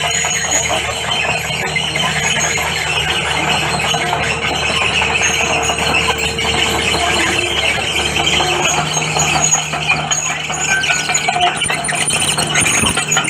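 Komatsu D31PX crawler bulldozer at work: a steady low diesel hum under a dense, high-pitched metallic squeal and clatter, typical of steel crawler tracks moving.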